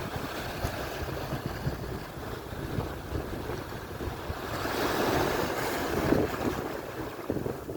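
Atlantic surf washing on the shore, with one wave swelling louder and breaking about halfway through. Wind buffets the microphone throughout as a low, gusty rumble.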